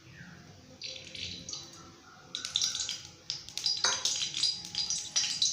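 Refined oil heating in a kadai and starting to crackle and spatter, with dense little pops that begin about a second in and get louder from about two seconds in.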